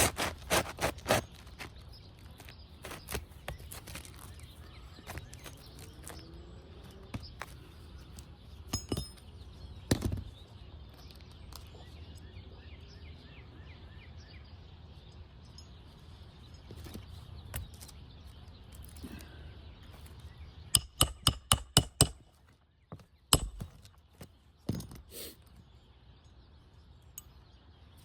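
Scattered knocks, taps and scrapes of hand work on an asphalt shingle roof, including a quick run of about eight light taps a little over twenty seconds in, over a low wind rumble.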